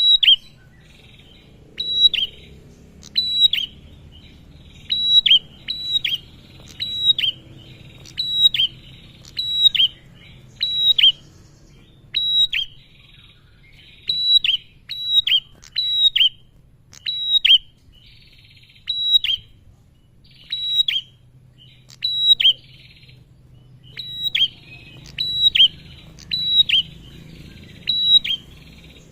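Male prenjak (a prinia) singing: a run of sharp, high chirps, each dropping quickly in pitch, about one or two a second with brief pauses.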